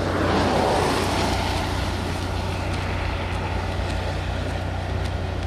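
Car engine running and road or wind noise heard from inside the cabin, with a steady low hum. A broad rushing noise swells in the first second or so, then settles.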